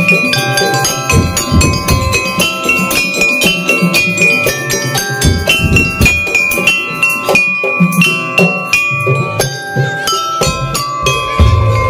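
Madurese daul (tongtong) ensemble playing: a quick melody of struck metal bells and metallophone notes over a steady beat of drums and percussion.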